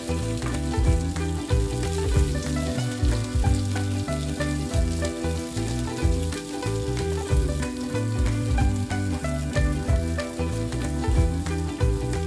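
Onion pieces sizzling as they sauté in a granite-coated wok, stirred and pushed around with a wooden spatula. Background music with changing bass notes plays underneath.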